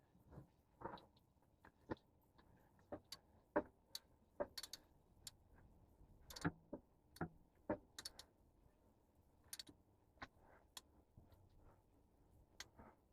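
Faint, irregular clicks and light knocks from hand tools and small metal parts being handled during repair work, a dozen or more scattered sharp ticks with no steady rhythm.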